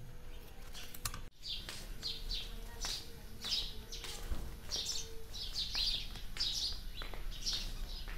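Small birds chirping: a busy series of short, high calls repeating every half second or so. It begins after a brief dropout about a second in.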